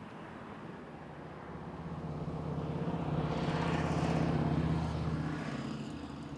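An engine's steady drone that swells as it passes close by, loudest about four seconds in, then fades away.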